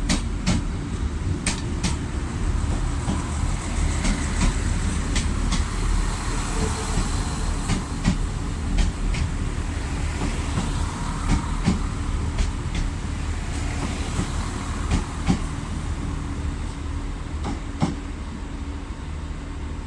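Irish Rail 22000 Class diesel multiple unit on the move, its diesel engines giving a steady low rumble. Irregular sharp clicks come from the wheels over rail joints and points.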